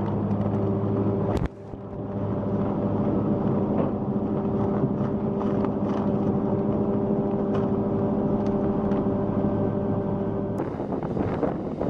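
Wood chipper's engine running at a steady drone. It breaks off abruptly about a second and a half in, then comes back the same, and near the end gives way to a rougher, noisier rushing sound.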